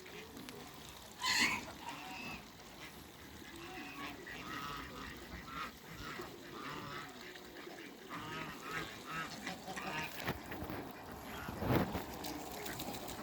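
Farm ducks and geese calling: a steady run of short honks and quacks, with one loud honk about a second in. A louder, deeper burst of sound comes near the end.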